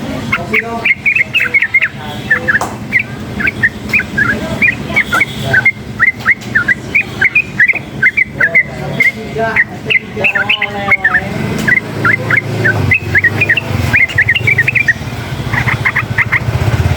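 Yellow-vented bulbul (trucukan) singing without pause, a rapid string of short, sharp chirping notes, over the low rumble of passing traffic that swells in the second half.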